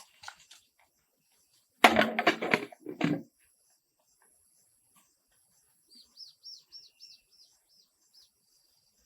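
A loud, crackly noise burst lasting about a second and a half, then a bird calling a quick series of about eight short, high chirps, each falling in pitch.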